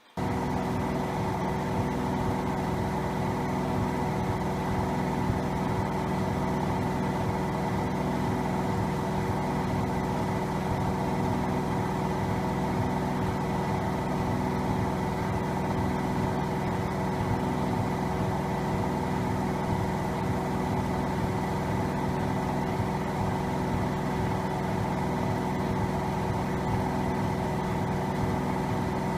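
Siemens iQ700 front-loading washing machine on its spin cycle with an unbalanced load: a steady hum from the motor and drum with an even, regular pulsing. It starts abruptly.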